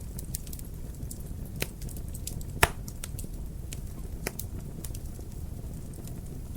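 Wood fire crackling in a fireplace: a steady low rumble of burning with scattered sharp pops and snaps, one louder pop about two and a half seconds in.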